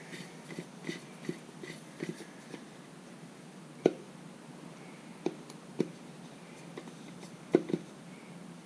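Handling noises from a plastic oil filter cap and its cartridge: small scattered clicks at first, then a few sharp plastic clicks and taps, two close together near the end.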